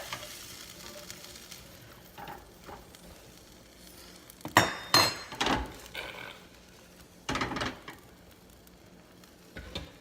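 Faint sizzling of a skillet of mushrooms and green beans in broth, broken by a cluster of sharp metal-and-glass clinks of cookware about halfway through, a heavier knock a couple of seconds later and a light one near the end.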